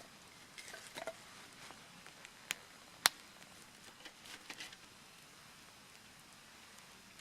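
Wood fire crackling with irregular sharp pops, the loudest about three seconds in.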